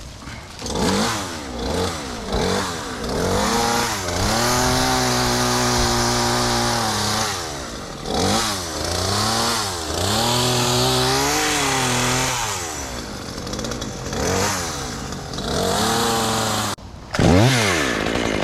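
Gas chainsaw revved up and down over and over as it cuts tree limbs, held at full throttle for a few seconds at a time and dropping back between cuts. It stops abruptly near the end, then revs up again.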